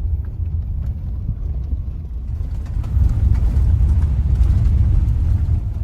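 Dirt bike engine running, heard as a low, rough rumble on a helmet camera's microphone. It gets louder about three seconds in and eases off near the end.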